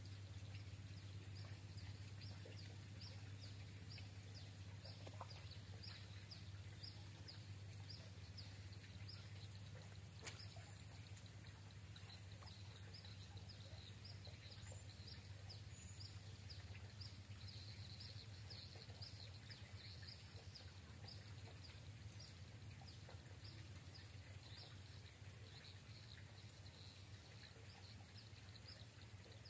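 Faint outdoor ambience of a small animal chirping, short high chirps repeating about two a second, over a steady thin high tone and a low hum. There is a single sharp click about ten seconds in.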